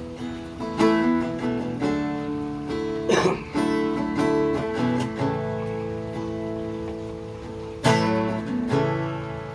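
A stringed instrument strummed, with chords ringing between strokes and a brief scratchy sound about three seconds in; an instrumental lead-in to a song.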